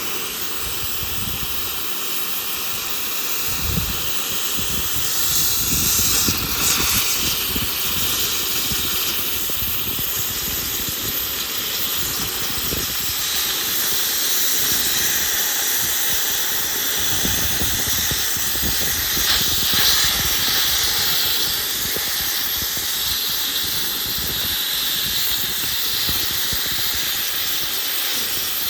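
Gas cutting torch hissing steadily as it cuts through a steel excavator track chain link.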